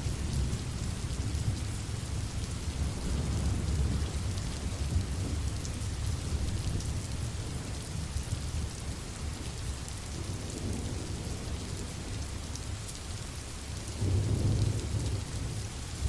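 Steady rain falling, with low rolling thunder rumbling underneath that swells louder near the end.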